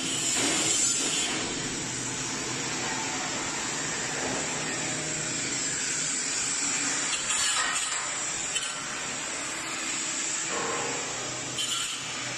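Steady hiss and low hum of running industrial machinery, with a few light knocks.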